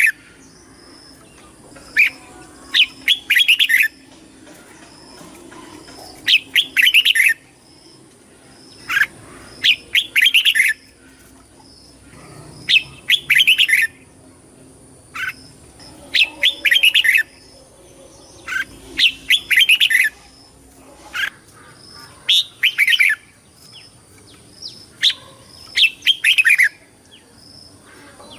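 Red-whiskered bulbul singing short, quick warbled phrases, repeated about every three seconds.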